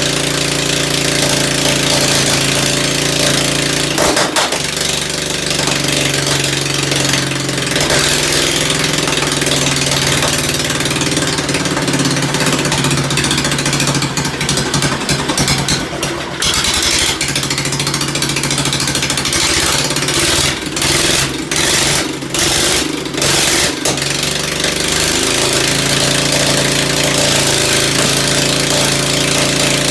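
Ford engine running steadily. A few seconds in its note changes and stays unsettled until near the end, with a few brief dips in loudness about two-thirds of the way through.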